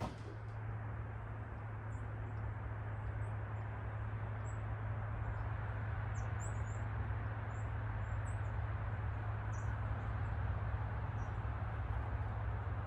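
Small birds giving short, high chirps scattered throughout, over a steady rushing background noise with a low rumble.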